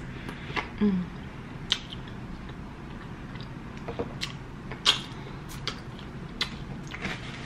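Person chewing colossal shrimp and smacking their lips. Scattered short wet clicks and smacks, with a brief closed-mouth hum just under a second in.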